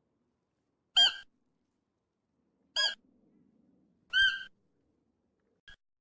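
A short high-pitched animal call, repeated three times about one and a half seconds apart, each time alike, with a faint brief fourth call near the end.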